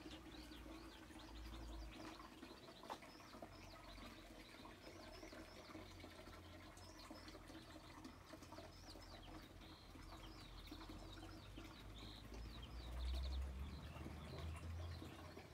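Small birds chirping and twittering, many short calls with a few brief trills, faint over a low rumble that grows louder near the end.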